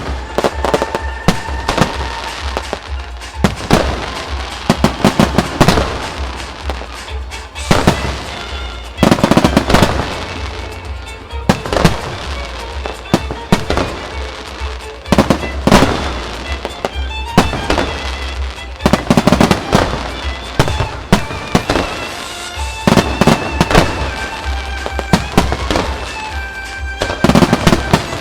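Aerial fireworks shells bursting in a rapid, continuous barrage of loud bangs and crackles, with music playing underneath.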